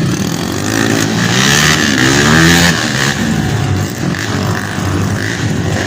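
Dirt bike engine revving hard, its pitch climbing repeatedly and loudest about two and a half seconds in, then settling back to a rougher, lower run.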